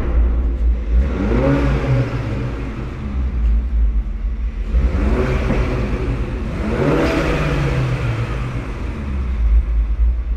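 Mini Cooper S John Cooper Works' 2-litre inline four-cylinder engine and loud exhaust, revving up and dropping back about three times under acceleration over a heavy low rumble.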